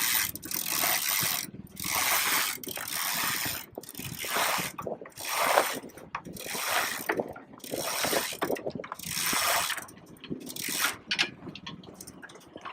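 Sail halyard being hauled hand over hand to hoist the mainsail, the rope running through its block in about eight long pulls of roughly a second each, with short pauses between them, stopping near the end as the sail reaches the top.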